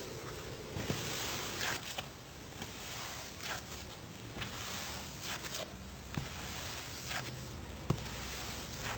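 Slime being handled by hand, giving short clicks and pops at irregular intervals over a steady hiss.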